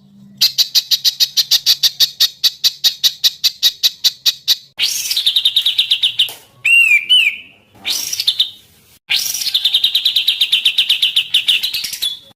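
Recorded songbird song used as masteran (tutor song for caged birds): long rapid trills of sharp chirps held near one pitch, about eight a second. A short pair of sweeping whistled notes comes about halfway through, and the separate recordings are joined with abrupt cuts.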